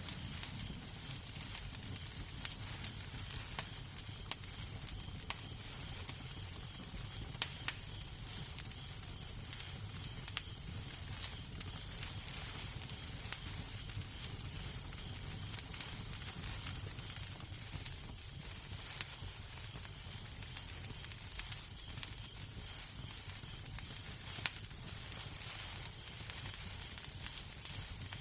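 Wood fire crackling in a fireplace: an even hiss and low rumble with scattered sharp pops and snaps at irregular intervals.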